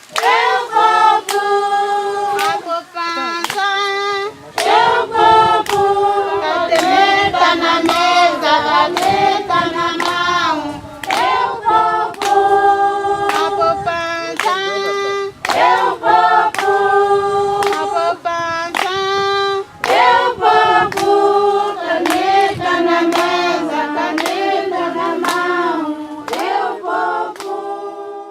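A group of voices singing in chorus, with hand clapping keeping a steady beat throughout.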